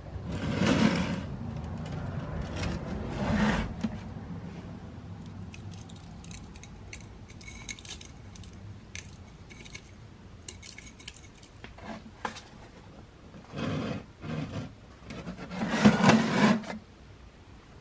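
Small metal parts and tools clinking and scraping as they are handled while working on an oil filter housing, with several louder bursts of handling noise, the loudest near the end.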